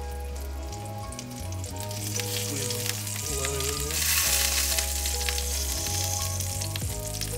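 Flour-and-egg-dredged chicken cutlet frying in a cast-iron skillet: steady sizzling and crackling that grows louder about two seconds in, with background music underneath.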